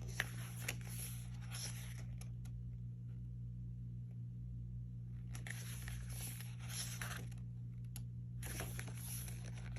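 Pages of an album photobook being turned and handled: three stretches of paper rustling, near the start, in the middle and near the end, over a steady low hum.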